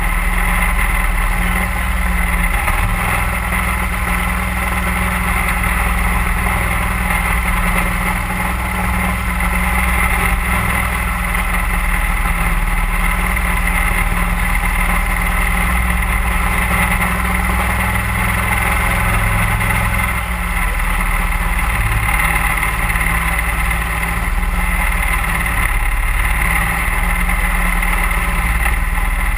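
Mud Buddy HyperDrive 31 hp surface-drive mud motor running steadily under way, pushing a duck boat along a creek.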